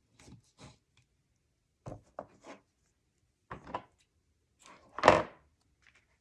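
A handmade paper album's cardstock pieces handled on a worktable: a series of short taps and rustles in small clusters, with one louder knock about five seconds in.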